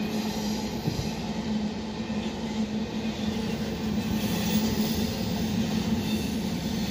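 Norfolk Southern freight train cars rolling past, a steady rumble of steel wheels on the rails with a constant low tone.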